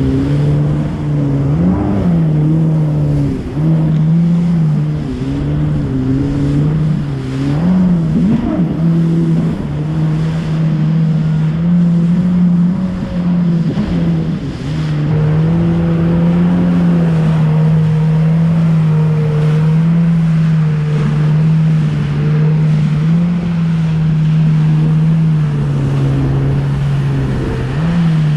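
Jet ski engine running at a steady cruising speed, its drone dipping and rising a little in pitch a few times, over a steady rushing hiss.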